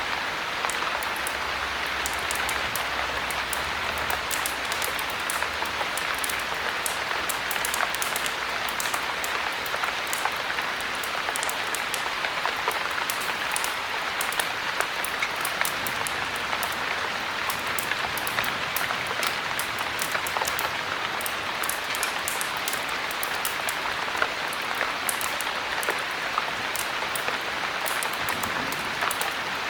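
Steady heavy rain, an even hiss with many small sharp ticks and crackles scattered through it.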